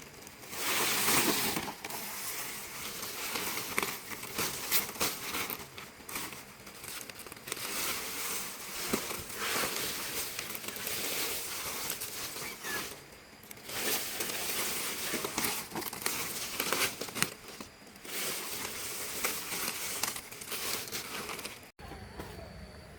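Palm leaves rustling and crackling as they are handled, with many scattered sharp snaps. The sound cuts off abruptly near the end.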